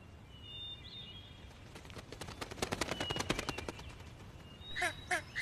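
Forest bird sounds: faint thin whistles, then a rapid rattle of dry clicks lasting about two and a half seconds, followed near the end by four short calls that slide downward in pitch.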